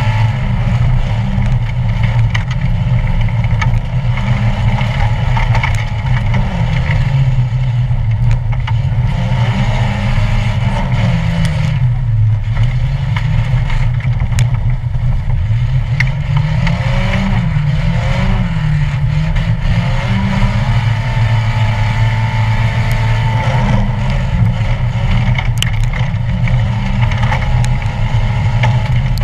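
Racing stock car's engine heard from inside the cabin under full race load, revving up and falling back again and again as the driver works the throttle, with scattered short knocks and rattles from the car.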